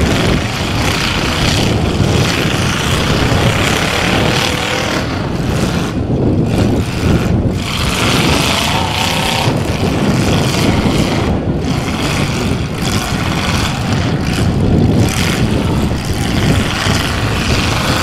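Several demolition derby cars' engines running loud and revving on a dirt track, a continuous mechanical din with small swells and dips.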